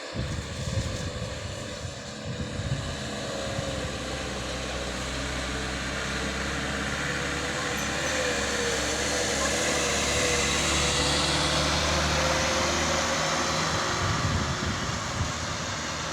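Heavy diesel vehicle engine running as it passes, a steady drone with a wavering whine that grows louder to a peak about two-thirds of the way through and then eases off.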